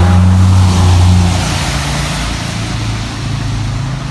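A car passing close by on a wet road: a steady low engine hum that fades after about a second and a half, under a swelling hiss of tyres on the wet surface.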